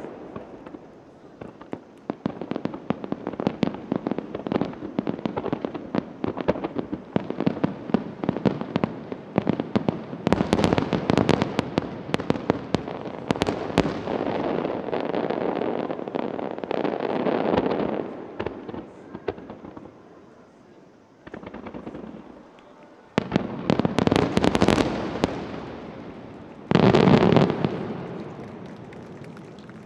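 Starmine fireworks: a rapid, dense barrage of shell bursts and crackling. It thins out about two-thirds of the way through, then two louder bursts come near the end and fade away.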